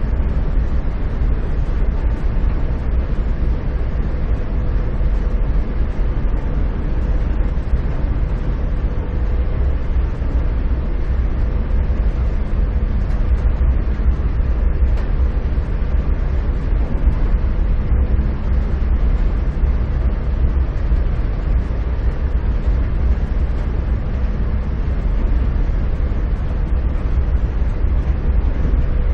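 Steady low rumble of a running vehicle, with a faint constant hum over it and no change throughout.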